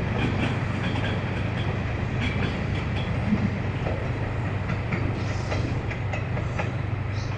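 Train running on the track: a steady low hum with scattered clicks from the wheels.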